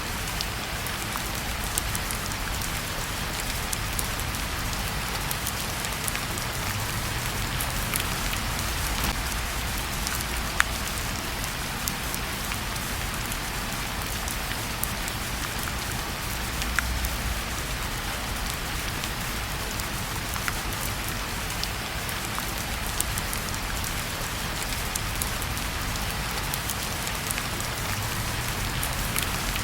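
Steady rain falling, with scattered sharp ticks throughout and a couple of louder pops about ten and seventeen seconds in.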